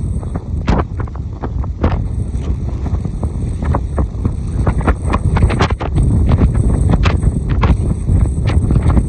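Strong wind buffeting the microphone by a rough sea: a constant heavy low rumble with frequent sharp crackles.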